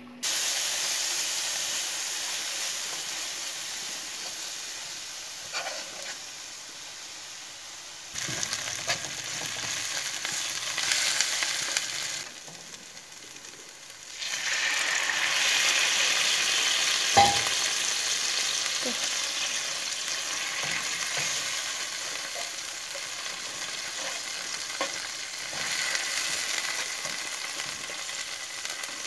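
Hot oil sizzling and spitting in a nonstick wok as chicken and then a red chili paste fry, with a metal spoon stirring and scraping the paste around the pan. The sizzle dips briefly partway through, and there is one sharp clink.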